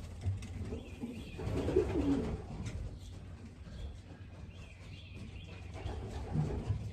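Racing pigeons cooing, with a cluster of low, wavering coos about two seconds in, over a steady low hum.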